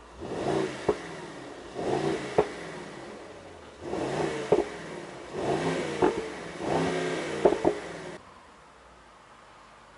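Mercedes-AMG SL 63's twin-turbo V8 blipped five times from idle while standing still, each rev rising and falling quickly, with sharp exhaust cracks as the revs drop. The revving stops a little past eight seconds in.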